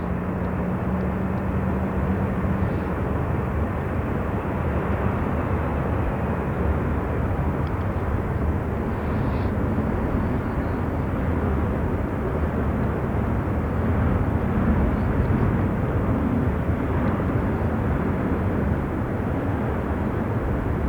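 Southwest Airlines Boeing 737's jet engines at takeoff thrust, a steady, even noise that swells slightly about two-thirds of the way through as the airliner departs.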